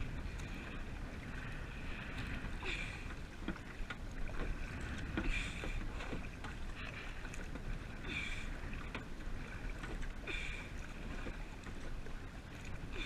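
Kayak paddle strokes: a splash of water roughly every two to three seconds, over a steady rumble of wind on the microphone.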